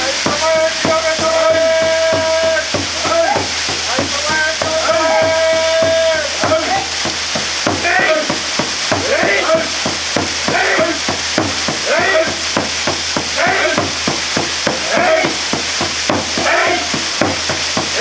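Waterfall pouring steadily onto the people standing in it. Over it a voice chants: two long held notes, then a run of short repeated syllables about one a second.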